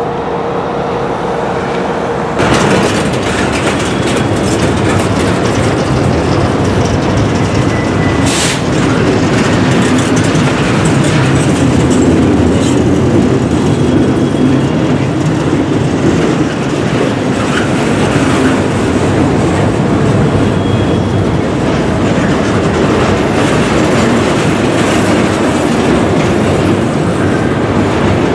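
Double-stack container train's well cars rolling past close by: a steady rumble and rattle of steel wheels on the rails, getting louder about two seconds in, with one sharp clank a few seconds later.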